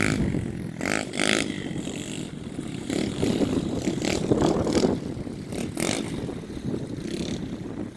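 Small 110cc dirt bike engines running, their sound rising and falling, with wind buffeting the microphone.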